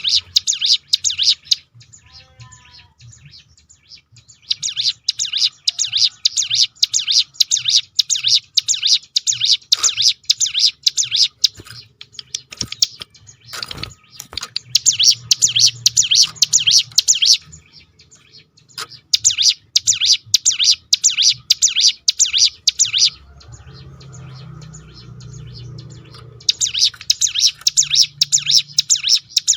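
Ciblek gunung (hill prinia) singing its 'tembakan' roll: fast rattling runs of sharp, high notes in several bouts, separated by short pauses.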